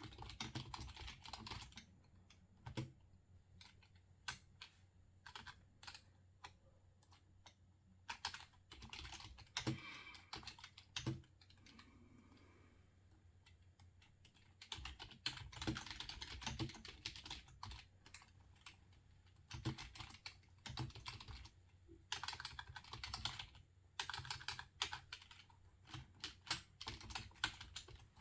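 Computer keyboard being typed on in bursts of quick keystrokes, with short pauses and a few single key or mouse clicks between them.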